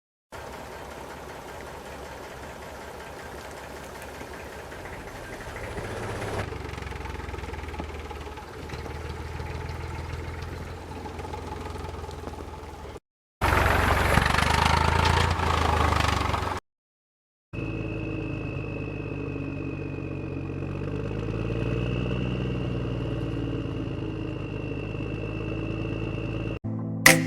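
A running engine, heard in three separate stretches split by short gaps. The middle stretch is louder, and the last has a steady high whine over it.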